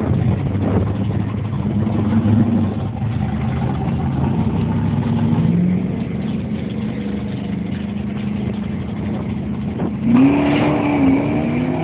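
Big-block drag race cars' engines running at low revs with a slow rise in pitch, then a sudden louder rev about ten seconds in.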